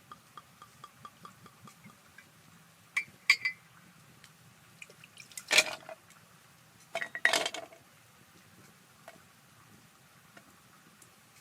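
Dishes and glassware clinking as they are handled: a few light clinks, then two louder clattering handlings around the middle.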